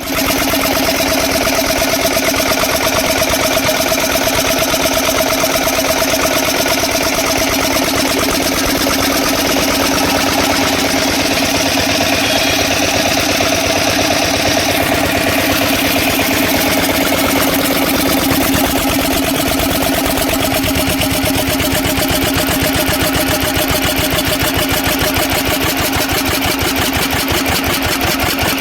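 Old water-cooled twin-flywheel stationary engine running steadily with an even, rapid beat.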